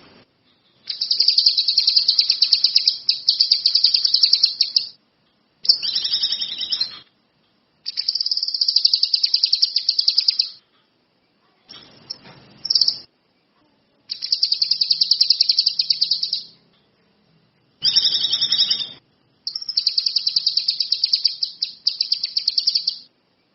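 Kinoi songbird singing vigorously (gacor). It gives bursts of very fast, high, chattering trills a few seconds long, repeated again and again with short pauses between them.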